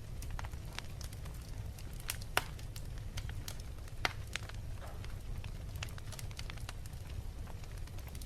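Wood fire crackling in a fireplace: irregular sharp pops and snaps over a low steady rumble, the loudest pop a little over two seconds in.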